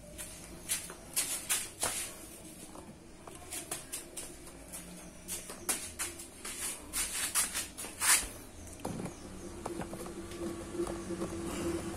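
Irregular light clicks and knocks, a few close together and one louder knock a little after eight seconds, with a faint steady hum coming in near the end.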